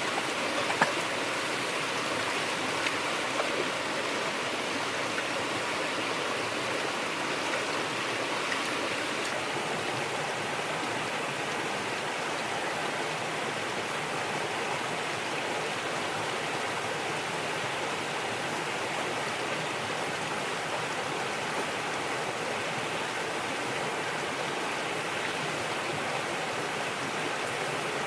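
Steady rushing of running water, with a few faint ticks in the first few seconds.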